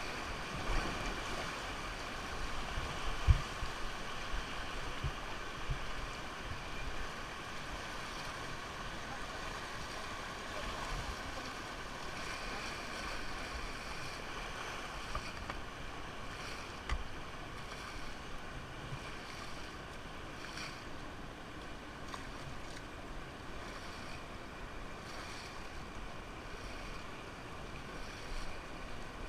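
Steady rush of river water, with a few short low knocks; the loudest knock comes about three seconds in.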